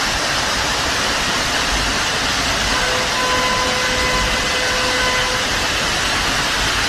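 Steady rushing noise of torrential rain and floodwater. From about three seconds in, a steady pitched tone sounds over it for about two and a half seconds.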